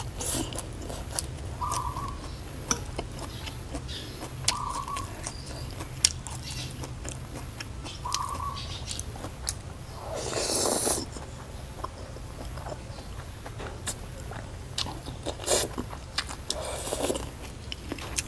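Close-up mouth sounds of eating noodles and raw banana blossom: chewing and biting with many small wet lip and tongue clicks, and a longer slurp of noodles about ten seconds in.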